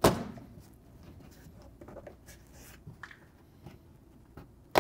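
Hand work on the plastic bumper cover and wheel-arch liner while a 10 mm bolt is refitted. A sharp knock sounds at the start and another at the end, with light scraping and faint scattered ticks between.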